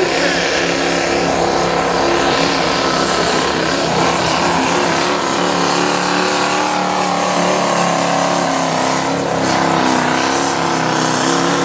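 Limited Pro diesel four-wheel-drive pulling truck's engine running hard at high revs under heavy load as it drags the weight sled, its pitch wavering slightly.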